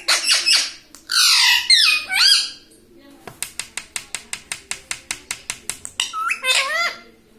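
Ring-necked parakeet squawking loudly with sweeping, warbling calls. In the middle comes a run of about twenty quick sharp clicks, roughly seven or eight a second, and a few more squawks follow near the end.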